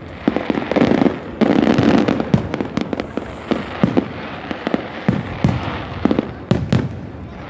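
Aerial fireworks going off: many bangs and crackles at irregular intervals, with a dense volley of explosions about one and a half seconds in.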